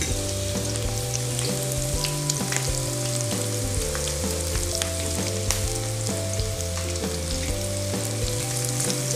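Breaded onion rings deep-frying in hot oil in a wok: a steady sizzle dotted with many small crackling pops.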